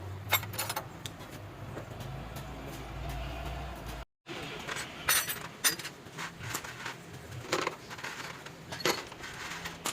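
Spanners and other metal hand tools clinking and knocking against metal engine parts in irregular, separate strikes over a low hum. The sound cuts out for a moment about four seconds in.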